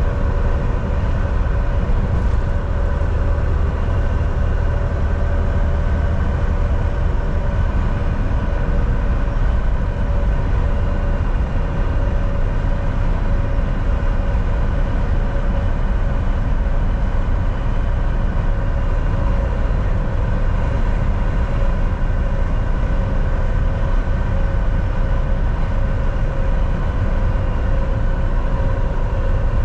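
Volvo VNL 760 semi-truck cruising at a steady highway speed, heard from inside the cab: a constant low engine drone and road rumble with a few steady held tones.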